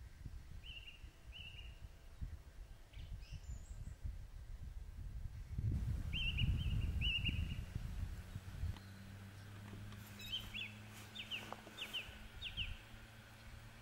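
Meadow birds calling in short high chirps, a few at a time, then a quick run of sharp falling notes near the end. Wind rumbles on the microphone for the first two-thirds, loudest in the middle. A faint low steady hum sets in about two-thirds through.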